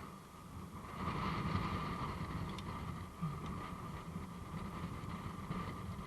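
Strong wind gusting over the microphone, a rumbling buffet that swells about a second in, with a few faint clicks.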